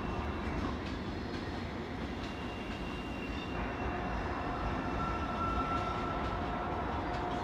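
A train running on the tracks: a steady rumble with a faint high tone. Two steady whining tones come in about halfway through.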